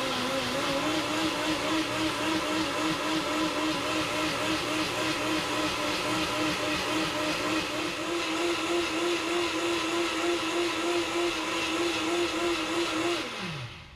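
Vitamix S55 blender motor running at high speed while blending soup, its whine stepping up slightly in pitch twice. About 13 seconds in it is switched off and the whine drops away as the blades spin down.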